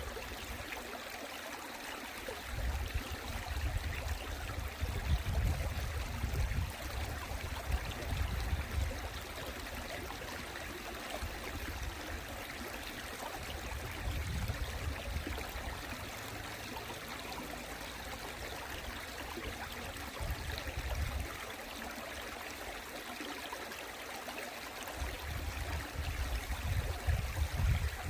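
Valley stream water running steadily, with a low rumble that comes and goes underneath.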